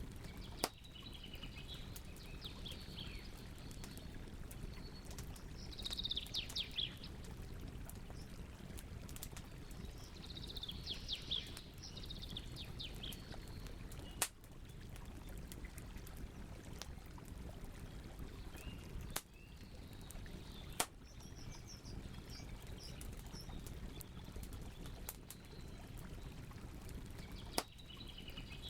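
Campfire crackling, with a handful of sharp pops over a steady low hiss of burning wood, while small songbirds chirp in short runs in the background.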